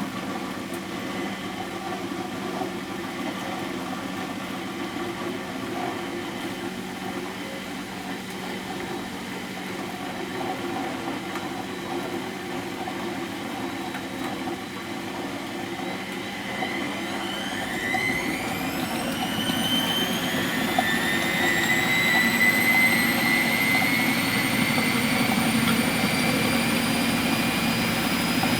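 Miele Professional WS 5426 washing machine running steadily. From about two-thirds of the way in, a motor whine rises in pitch and grows louder as the drum speeds up into its spin.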